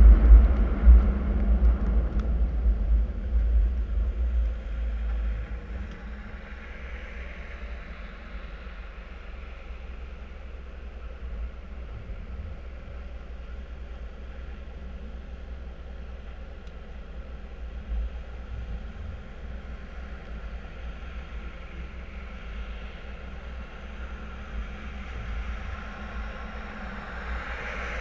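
Car driving on a snowy road: a steady low rumble of engine and tyres with road noise. It is louder for the first few seconds, then settles lower and even.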